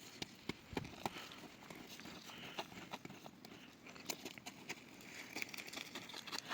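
Irregular light knocks and clicks over a soft rustling.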